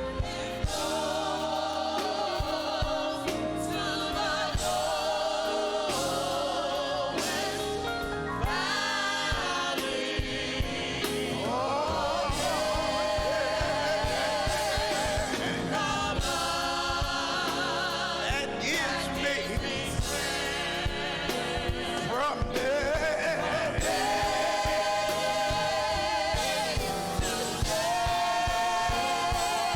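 Gospel choir singing a praise song with band accompaniment over a steady beat.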